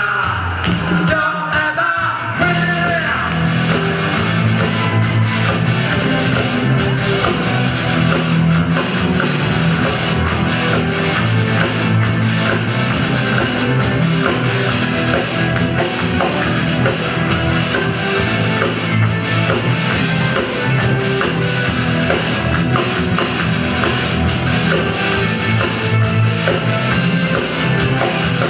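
Rock band playing live: a voice sings for the first couple of seconds, then the full band with drums and electric guitar keeps a steady beat.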